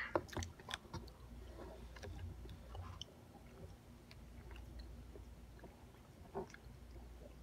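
Faint chewing of soft chocolate fudge: quiet wet mouth sounds and small clicks, most of them in the first second.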